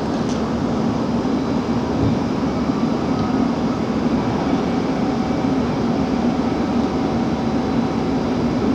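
Steady mechanical rumble with a low hum, the running noise of a cruise ship's machinery. It holds an even level with no distinct events.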